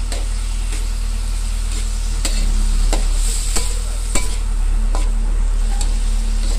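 Diced pork and carrots sizzling in a wok while a metal spatula stirs them, scraping and clinking against the pan several times. A steady low hum runs underneath.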